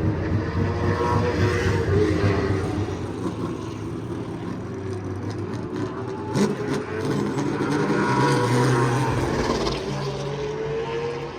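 Race car engines running and revving, the pitch rising and falling.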